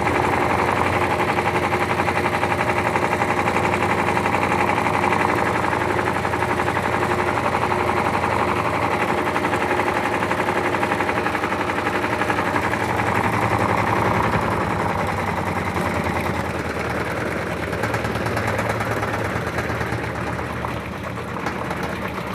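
Electrolux LT13B top-loading washing machine running its suspension test with a loud, fast, continuous rattling knock, the noise of its suspension. It eases off slightly about two-thirds of the way through.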